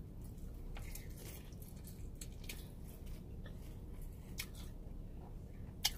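Faint, wet chewing and mouth sounds of a person eating glaze-soaked fried chicken, with scattered soft clicks and one sharper click near the end, over a steady low hum.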